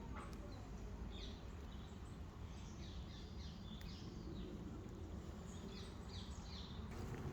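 Several different songbirds singing and chirping in woodland, with short repeated calls over a steady low background rumble.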